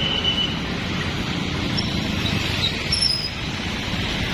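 A train running through a road crossing, a steady rumble with a few brief faint high squeals.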